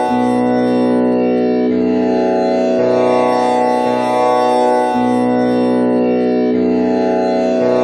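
Tanpura drone in B scale, tuned with komal Ni, its strings plucked in turn in a repeating cycle. A new pluck enters about every second over a steady, continuous ringing.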